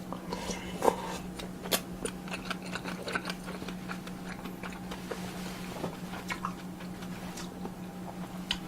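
Close-miked eating: chewing and small wet mouth sounds, with scattered sharp clicks of utensils, the loudest about a second in and again near two seconds in. A steady low hum runs underneath.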